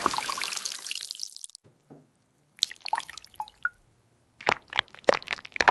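Cooking hiss from the pan fading away over the first second and a half, then, after a short quiet, scattered dripping clicks and small pops.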